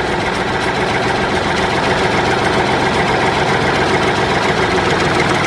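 Mini tractor's small engine idling steadily at an even pace.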